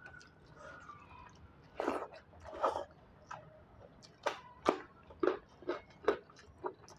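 A person chewing a mouthful of rice and beetroot with their mouth close to the microphone. Wet chewing sounds start about two seconds in and go on at about two to three a second.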